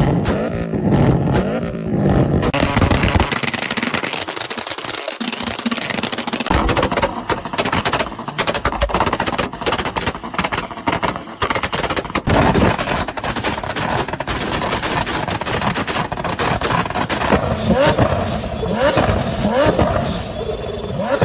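Car engines revving with exhaust backfires: unburned fuel igniting in the exhaust gives rapid pops and bangs. The pops come thickest in a fast crackling run in the middle.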